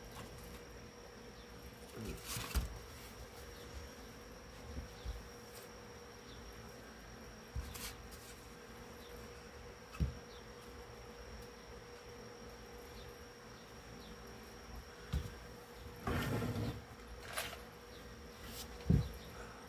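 Soft rustles and a few light knocks of speaker grill cloth being handled and laid out on a work surface, with a louder rustle near the end. A steady faint hum with a high-pitched whine runs underneath.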